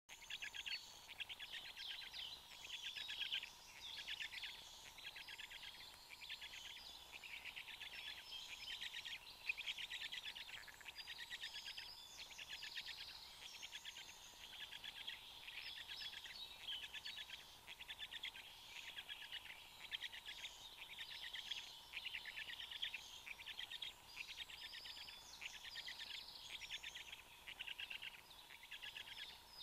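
Bird calls: rapid pulsed trills or rasps in bouts of a second or two, one after another, over a faint steady hum.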